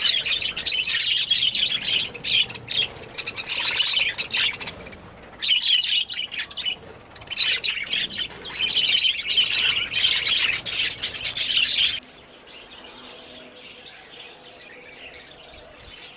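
A flock of budgies chattering and chirping in a dense, continuous stream, which cuts off abruptly about twelve seconds in, leaving only a faint background.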